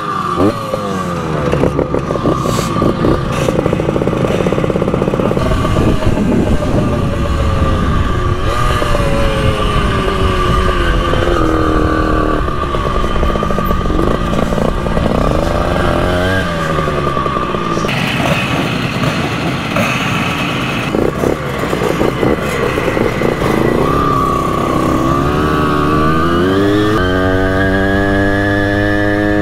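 Simson moped's single-cylinder two-stroke engine under way, its revs rising and falling again and again, ending in a long climb to a high, held rev.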